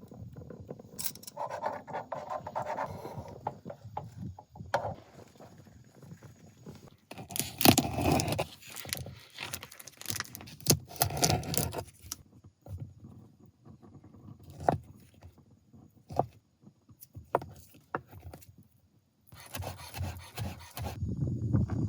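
Scraping, clinking and knocking of cooking gear being handled during camp meal prep, with sharp clicks scattered throughout and longer scraping stretches around the middle and near the end.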